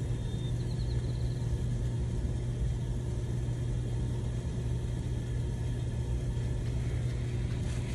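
Water pressure system's pump motor running with a steady low hum while it builds pressure toward the pressure switch's cut-out, slowly enough that the owner finds it weirdly long.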